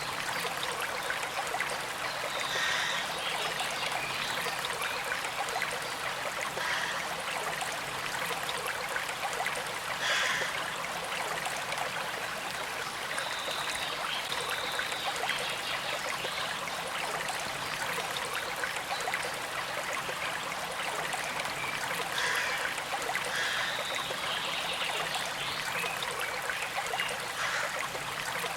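Small stream flowing and trickling steadily, briefly louder now and then.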